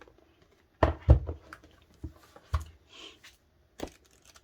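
A DVD box set and its packaging being handled and opened: a few sharp knocks and clicks, the loudest about a second in, with a faint rustle between them.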